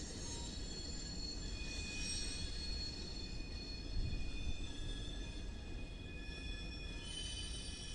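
Freight train's diesel locomotives rolling past with a steady low rumble and a high-pitched squeal of steel wheels on the rails, several tones shifting and overlapping. A short knock about four seconds in.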